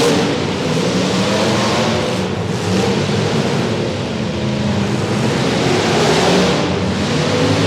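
Several demolition derby cars' engines running hard and revving, their pitches rising and falling over one another, loud and steady.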